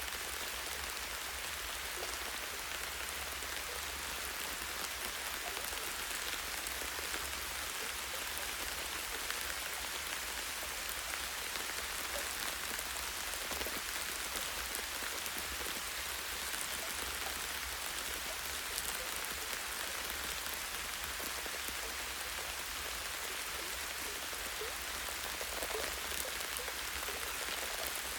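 Light rain falling steadily on forest trees: an even patter of raindrops, with scattered single drips from the branches.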